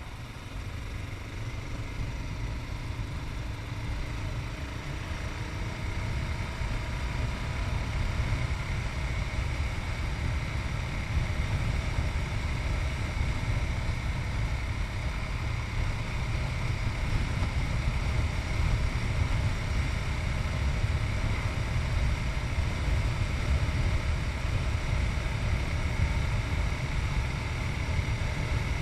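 Yamaha MT-03's 660 cc single-cylinder engine running under way, buried in heavy wind rumble on a chest-mounted camera. The overall level climbs gradually over the first ten seconds or so, then holds.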